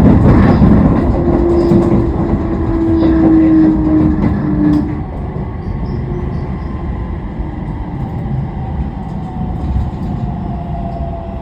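Toei Shinjuku Line 10-300 series train running, with the whine of its Mitsubishi IGBT-VVVF inverter and traction motors over wheel-on-rail rumble. The whine slides slowly downward in pitch as the train slows on the approach to a station, and the running noise drops a little about five seconds in.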